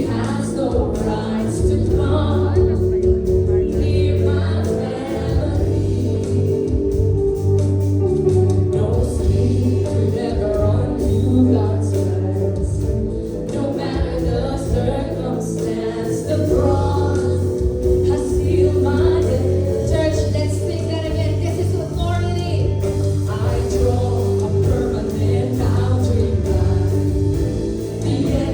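Live Christian worship music: a band with sustained bass and held chords accompanying a group of singers.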